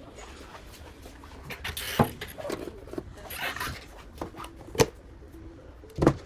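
Handling noises at close range: short rubbing scrapes and three sharp clicks or knocks, the loudest near the end.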